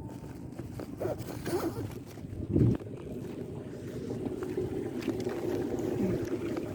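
Strong wind buffeting the microphone over lapping water, a steady rushing noise that swells a little toward the end, with one loud low thump about two and a half seconds in.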